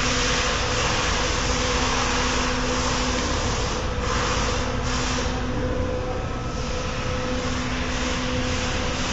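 CNC machine running with a steady mechanical hum, two constant tones over a wash of whirring noise that thins out briefly a few times around the middle.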